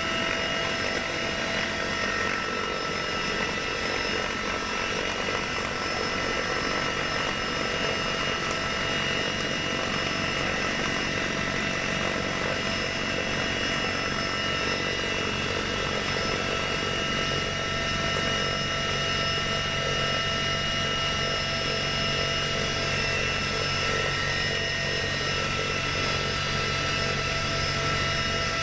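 Aircraft engines running steadily: an even rush with several steady whining tones held throughout, no shots or impacts.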